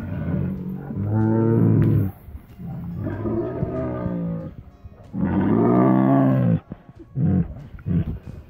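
Tigers calling: three long, low, moaning calls of a second or two each, then a run of shorter calls near the end.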